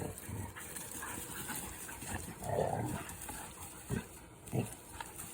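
Dogs play-fighting, making scattered short vocal noises. The strongest comes about halfway through, and two short sharp ones come near the end.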